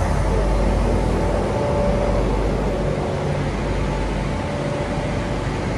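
Bangkok Airport Rail Link electric train standing and running at an open-air platform: a steady hum and rush with a faint held tone, easing slightly.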